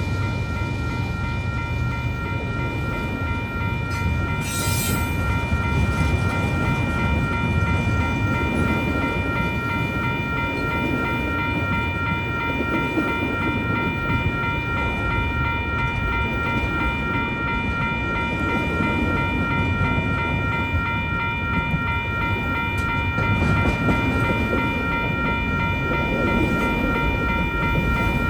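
Union Pacific intermodal freight train rumbling steadily through a grade crossing, with the crossing's warning bell ringing continuously over it. A brief high hiss comes about five seconds in.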